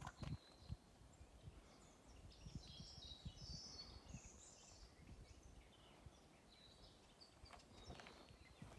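Near silence: quiet outdoor ambience with faint, scattered bird chirps and a few soft knocks.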